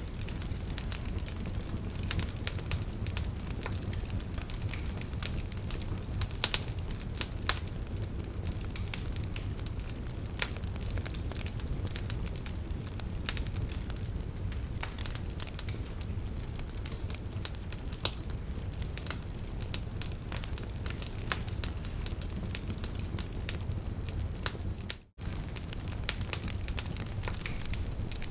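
Wood fire burning in a fireplace: steady crackling with frequent sharp pops over a low rumble. The sound drops out for a split second about 25 seconds in.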